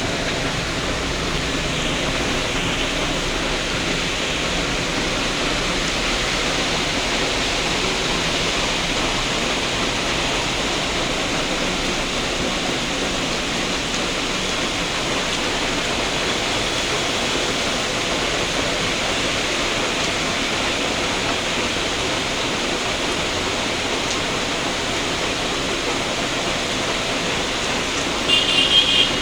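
Heavy rain falling steadily, a dense even hiss. Near the end a brief high-pitched sound of a few quick pulses cuts in over it.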